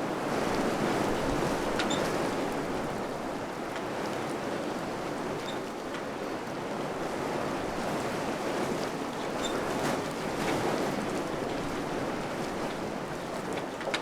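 Wind blowing in gusts, a steady rushing noise that swells and eases, with a few faint scattered clicks.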